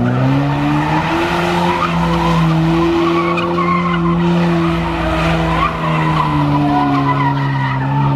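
A car's engine revving up in the first second and then held at high revs while its tyres spin and squeal in a burnout, the engine note dipping slightly near the end.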